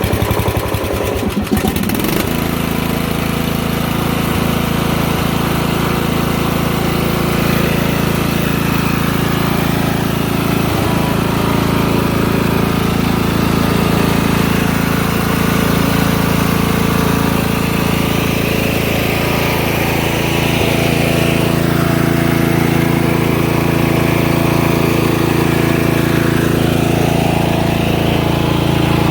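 Briggs & Stratton engine of a riding lawn mower being cranked over and catching about two seconds in after being flooded, then running steadily.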